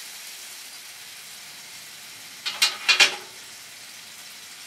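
Chicken and vegetables sizzling steadily on a hot grill. About two and a half seconds in there are three short, loud scrapes in quick succession as the chicken is pushed around on the cooking surface.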